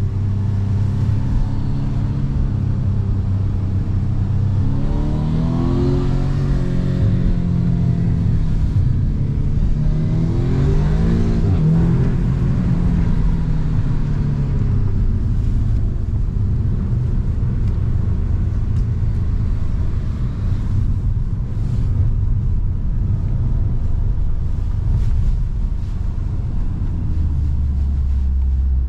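Audi S3 8V's turbocharged 2.0-litre four-cylinder engine and exhaust under hard acceleration, the note climbing twice as it pulls up through the revs, then running steadier and dropping lower near the end.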